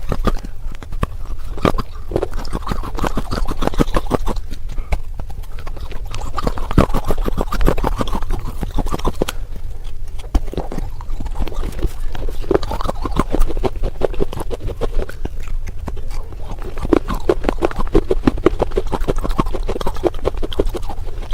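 Pieces of baked clay pot being crunched between the teeth: a dense, continuous run of crisp cracks and clicks that comes in waves.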